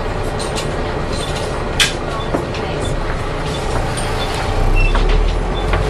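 Inside a Volvo B7TL double-decker bus on the move, its six-cylinder diesel and road noise running steadily. A sharp rattle or knock comes about two seconds in, with a smaller one just after. The low rumble swells near the end.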